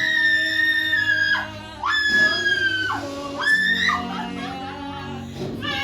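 A person screaming in three long, high, slightly falling cries during a deliverance prayer, with soft background music underneath.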